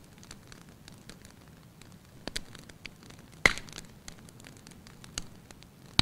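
Wood fire crackling in a fireplace: scattered sharp pops and snaps over a soft steady hiss, the loudest pop about three and a half seconds in.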